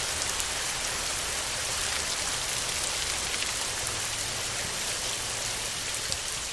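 Heavy rain falling steadily on a tin roof: a dense, even hiss with scattered sharper drop hits.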